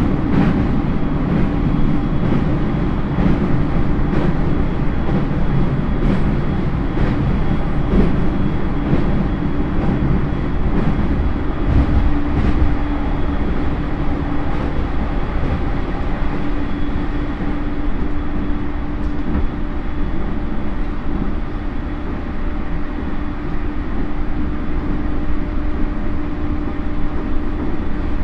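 JR East E231 series suburban electric train, a Hitachi IGBT inverter motor car, running at speed, heard from inside the car. The wheels rumble steadily on the rails under a constant hum from the drive, with sharp clicks over rail joints that come thickly in the first half and thin out later.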